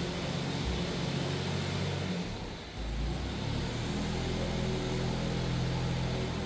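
Forklift engine running while moving vehicles about, its pitch dipping and recovering about halfway through.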